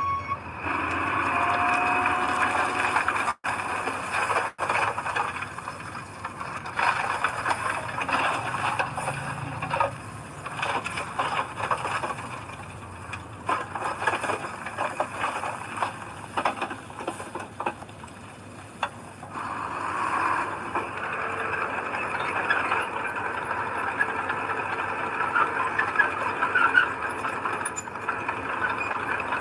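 Heavy earthmoving machinery working soil: a diesel engine running under dense rattling, clanking and squealing, with scraping throughout.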